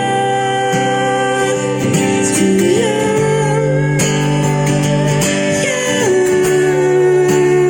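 Live singing with guitar: long, held vocal notes that slide from one pitch to the next over the guitar accompaniment.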